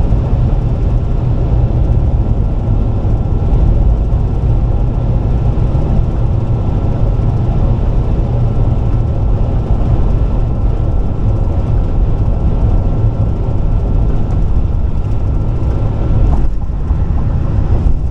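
Car driving at highway speed: a steady low rumble of tyres and road noise with a faint steady whine, dipping briefly near the end.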